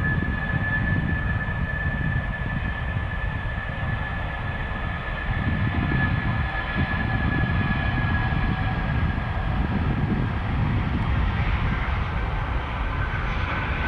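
Air Serbia Airbus A319 jet engines at takeoff power: a steady whine over a heavy low rumble, the whine sinking slightly in pitch and the hiss growing near the end.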